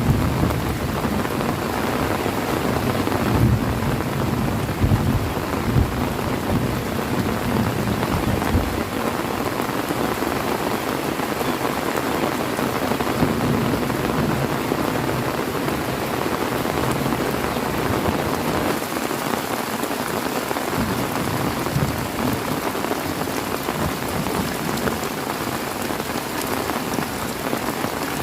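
Heavy rain falling steadily. A low rumble of thunder fills the first several seconds and fades out.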